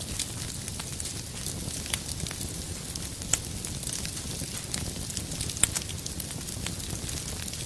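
Wood fire crackling in a fireplace: a steady low rumble and hiss with scattered sharp pops and snaps, a couple of louder pops midway.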